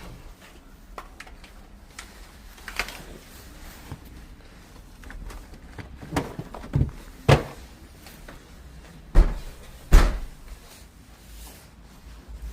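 Scattered knocks and clunks of things being handled, the loudest a pair of heavy thuds about nine and ten seconds in.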